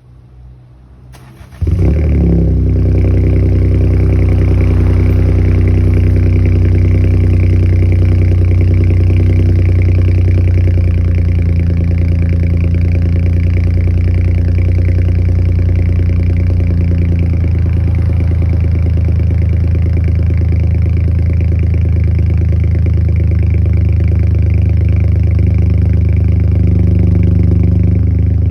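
Mini F56 turbocharged petrol engine starting from cold: it fires about a second and a half in and settles straight into a steady idle.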